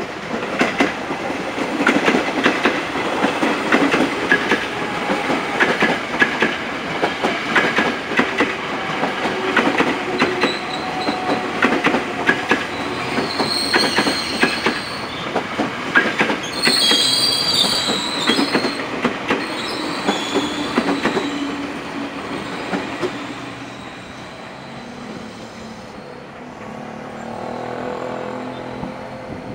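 KRL Commuter Line electric train rolling past close by, its wheels clattering over rail joints and points, with brief high-pitched wheel squeals about halfway through. The clatter fades after about twenty seconds, and near the end another train can be heard approaching.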